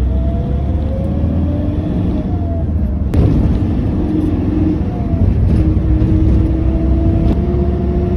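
Motor vehicle on the move: a steady low engine and road rumble, with the engine's tone rising and then holding steady. A single sharp knock comes about three seconds in.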